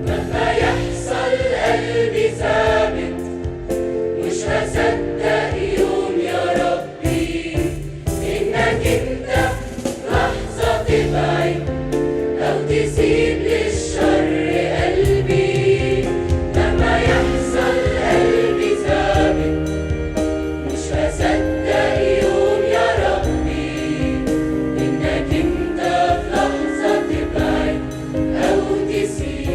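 A choir singing an Arabic Christian hymn with instrumental accompaniment.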